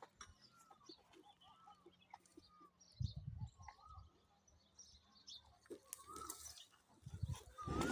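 Faint rural sounds: small birds giving repeated short chirps, with a low rumble about three seconds in and another, louder one near the end.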